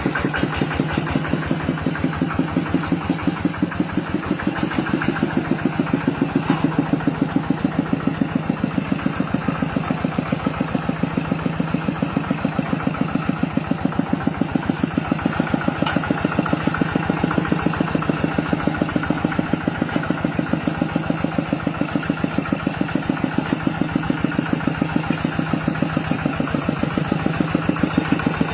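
Kubota 9.5-horsepower single-cylinder diesel walking-tractor engine idling steadily, with an even, rapid firing beat.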